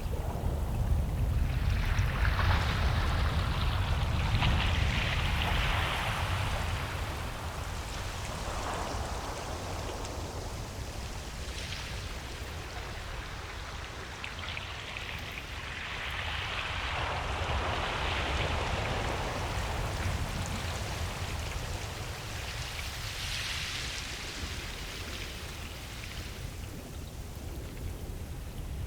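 Ocean waves breaking and washing up a beach: surges of hissing surf every several seconds over a steady low rumble, the loudest surge in the first few seconds.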